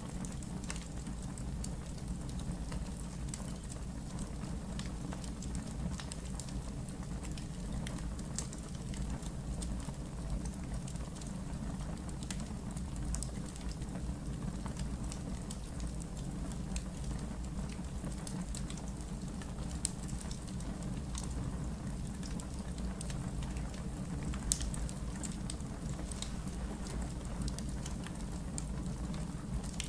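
Wood fire burning in a fireplace: a steady low rumble of flames with scattered crackles and pops from the logs, two of them louder, at about 20 and 24 seconds in.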